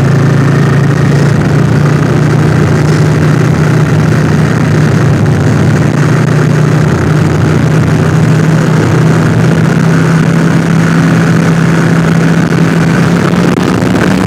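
Yamaha XV400 Virago's air-cooled V-twin engine running steadily, its pitch creeping slightly higher near the end.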